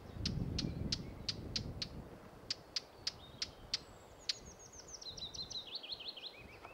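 Birdsong: sharp high call notes repeated about three times a second, then a quick run of notes that falls steadily in pitch over about two seconds. A low rumbling noise runs under the first two seconds.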